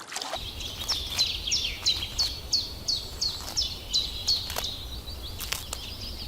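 A bird calling a fast series of short, sharp notes, each dropping in pitch, about three a second, over a steady high background drone.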